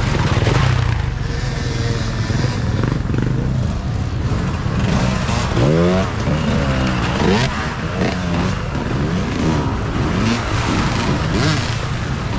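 Several off-road racing dirt bikes with engines running, revving up and down through the gears. A steady low engine drone in the first seconds, then from about halfway through repeated rising pitch sweeps as bikes accelerate one after another.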